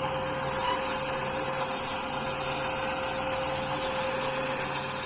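Sawmill running steadily: an even machine drone with a constant mid-pitched tone and a strong high hiss.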